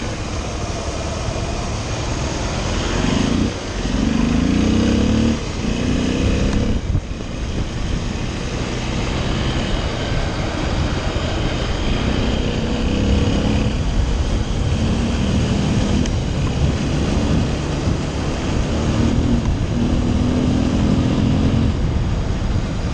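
Small motorcycle engine running under way, its pitch rising and falling again several times as the rider accelerates and shifts, over steady wind rush on the microphone.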